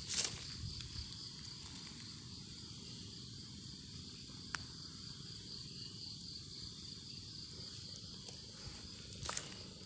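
Insects giving a steady high-pitched drone. There is a short rustle right at the start and another near the end, and a single sharp click a little before the middle.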